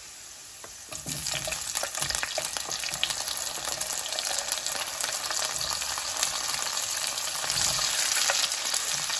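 Halved cherry tomatoes going into hot olive oil and garlic in a skillet, sizzling and crackling. The frying gets louder about a second in as the tomatoes hit the oil, with a few light clicks and knocks as they are pushed off a wooden board.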